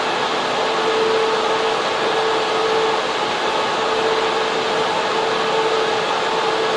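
Steady whoosh of server and cooling fans in a data center server room, with a faint hum that wavers in and out.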